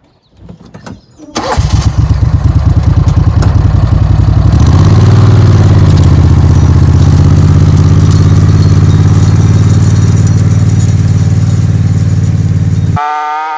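Buggy engine cranked and catching about a second and a half in, then running loudly and steadily; the sound cuts off abruptly near the end.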